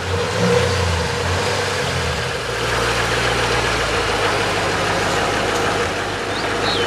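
A motor vehicle engine idling steadily, its low hum shifting to a deeper steady drone about two and a half seconds in.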